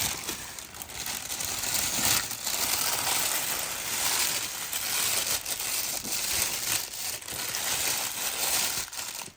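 Plastic packaging wrap crinkling and rustling as it is handled, a dense run of crackles that stops abruptly near the end.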